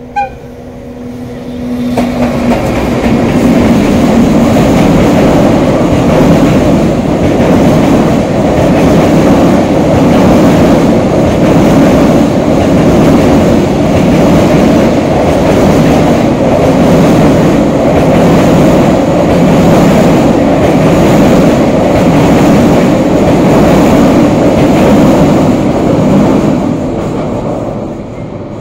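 An EF210 electric locomotive's horn sounds a steady tone as the freight train approaches. A long train of tank cars then rumbles and clatters past over a girder bridge, with an even rhythm of wheels over the rails, and fades away near the end.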